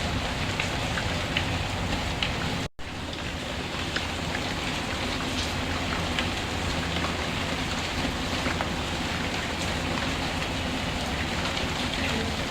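Steady rain, an even hiss with scattered light ticks of drops. The sound cuts out completely for a split second nearly three seconds in, then carries on as before.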